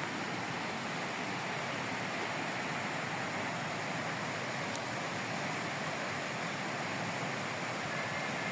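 Rushing water, a steady even roar of white water.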